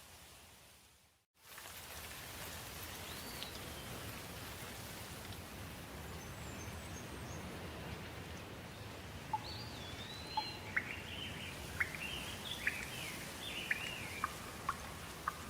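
Steady rain falling, with birds chirping over it in quick, sharp calls in the second half. The sound cuts out briefly about a second in.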